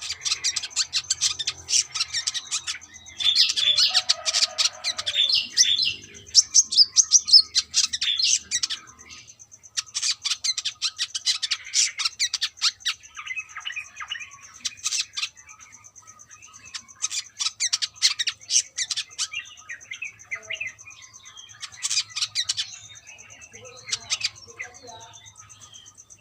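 Brown-throated sunbird (kolibri kelapa) singing: bursts of rapid, high-pitched chirps and twitters with short pauses between them. A steady high thin tone runs underneath.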